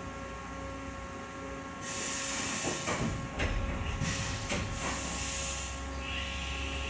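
Haas VF-3SS CNC mill's spindle running with a steady whine, joined from about two seconds in by several bursts of air hissing.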